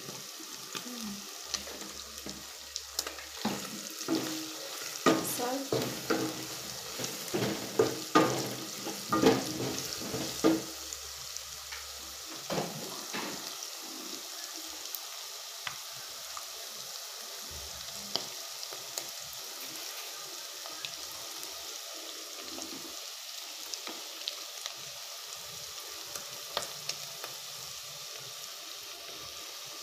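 Pilau ingredients sizzling in a hot pot with pilau masala just added, a spoon stirring and clicking against the pot, with frequent clicks in the first dozen seconds, then mostly steady sizzling with only occasional taps.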